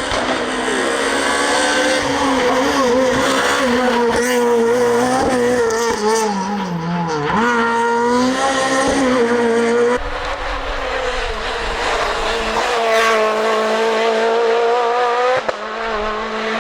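Renault Clio R3 rally car's naturally aspirated 2.0-litre four-cylinder engine at high revs, its pitch dropping on lift-offs and gearchanges and climbing again as it drives hard. The sound changes abruptly about ten seconds in to another stretch of the engine working at high revs.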